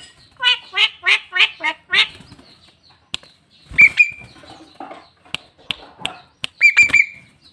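Javan myna calling: a quick run of about six rising notes in the first two seconds, then scattered sharp clicks and two short, harsher calls about four and seven seconds in.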